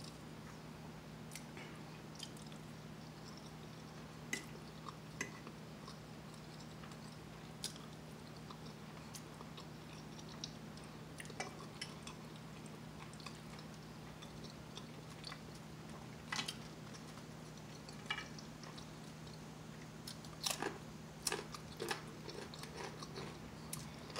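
A person chewing soft food close to the microphone, with scattered small clicks and taps that come thicker near the end, over a steady low hum.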